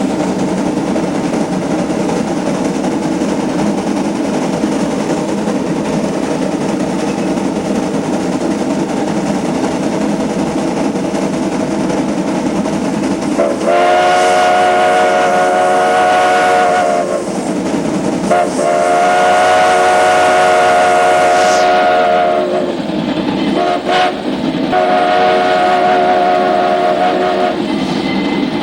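Heisler geared steam locomotive working steadily, then its steam whistle blows four blasts about halfway through: two long, one short and one long, the standard signal for a grade crossing.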